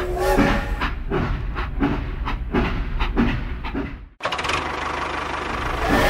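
Toy steam locomotive chugging, a rhythmic pulse about two to three times a second. About four seconds in it cuts off sharply and a steady mechanical hum follows.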